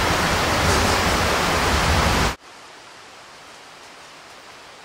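Loud, steady rushing hiss of rain, which drops abruptly about two and a half seconds in to a much fainter, steady hiss.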